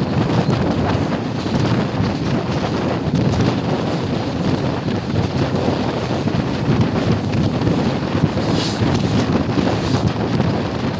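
Wind buffeting the microphone over the steady running rumble of a moving train.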